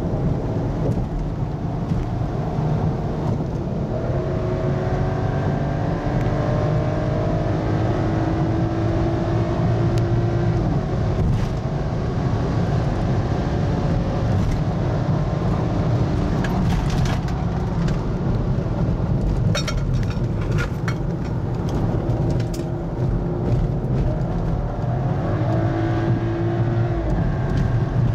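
BMW X3 35i's turbocharged 3.0-litre inline-six pulling hard through the gears, heard from inside the cabin over steady road rumble. Its note climbs in pitch, breaks off around the middle, and climbs again near the end. There are a few light clicks about two-thirds of the way in.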